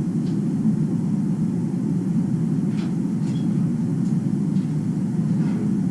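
Steady low rumbling noise, like a motor or blower running, with a few faint clicks and rustles of paper being handled.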